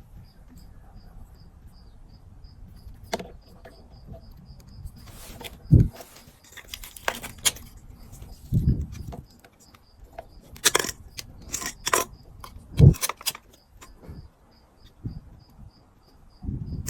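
Irregular clicks, light metallic rattles and a few dull thumps, as of small parts and tools being handled, over a faint high chirp repeating a few times a second.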